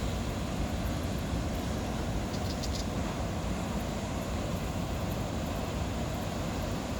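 Steady, gusty wind noise buffeting the microphone on an open beach, with a few faint high ticks a little over two seconds in.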